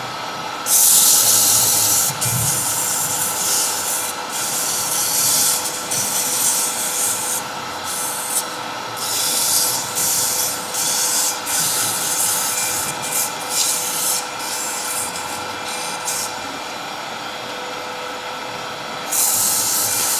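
240-grit sandpaper held against wood spinning on a lathe, hissing in repeated passes that stop for a few seconds near the end and then start again. The lathe hums steadily underneath.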